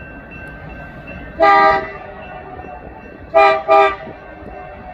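Locomotive air horn sounding three blasts over the low rumble of a passing train: one of about half a second, then two short ones close together about two seconds later.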